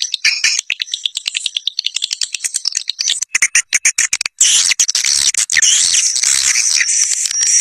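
Swiftlet calls from a swiftlet-house lure recording, meant to draw a flock of swiftlets. At first they are rapid, high clicking chirps; from about four seconds in they become a dense, continuous twittering chorus.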